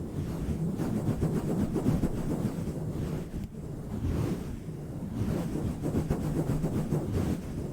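A cover being swirled and pumped directly on a microphone, heard as a deep, rough rumbling that swells and dips every second or so.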